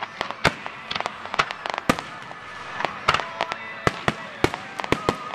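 Aerial fireworks shells bursting in quick, irregular succession: a string of sharp bangs, one to three a second, over a steady crackling haze.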